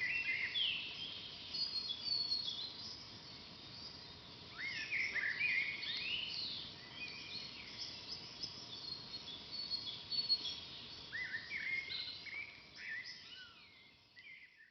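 Several forest songbirds chirping and singing, in clusters of quick, sliding high notes, over a faint steady hiss. The sound fades away near the end.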